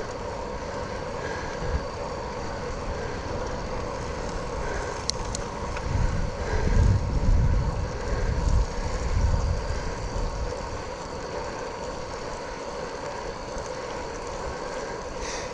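Steady riding noise from a bicycle on a wet trail, a constant hum over hiss, with wind buffeting the microphone in heavy gusts for a few seconds midway.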